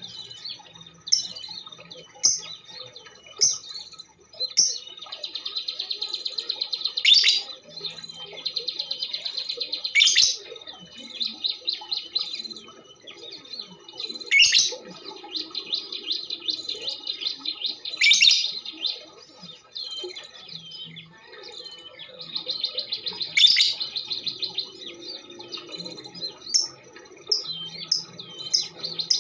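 Female lovebird singing in long, rapid, high-pitched chattering trills, broken every few seconds by sharp, louder calls.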